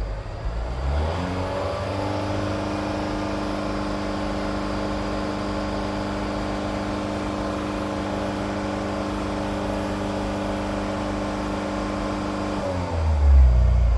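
Engine on test, revved up over the first couple of seconds and held at steady high revs, then let fall back to a low idle near the end.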